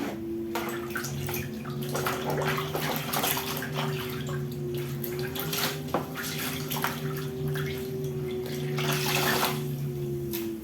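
Water splashing and irregular scrubbing and wiping strokes as the inside of a fridge is washed by hand, over a steady low hum.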